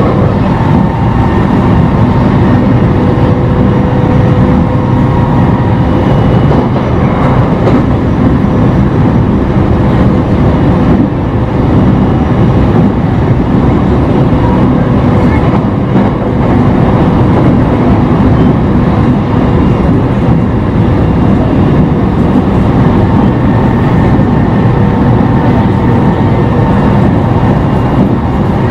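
JR East E721-0 series electric train running at speed, heard from inside the car. Steady wheel-on-rail rumble carries a steady whine from the traction motors, driven by a Mitsubishi IGBT VVVF inverter.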